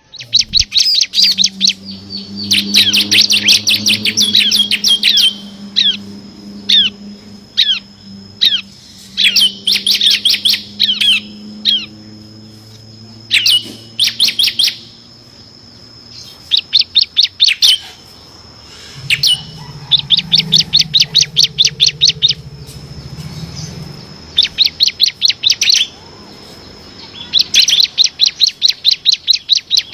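Bar-winged prinia (ciblek kristal) singing its rapid machine-gun 'bren' song: bursts of fast, down-slurred chips, about a second or two each, repeated with short pauses. A faint steady high whine and a low hum run underneath.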